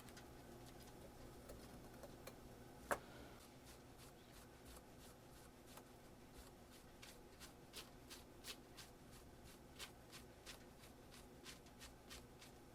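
Faint, irregular small clicks and light handling sounds over a low steady hum, with one sharper click about three seconds in.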